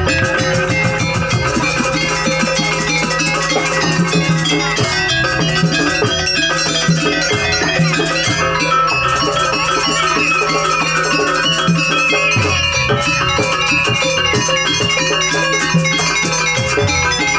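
Loud live jaranan gamelan music: drums beating a dense, driving rhythm under the steady ringing of metal gongs and metallophones.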